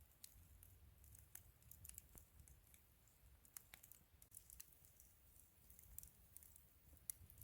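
Faint wood fire crackling: irregular small pops and snaps, several a second, over a low steady rumble.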